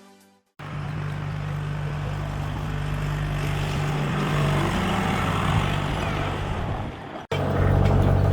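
Tractor engine running at a steady low drone, with a brief break near the end.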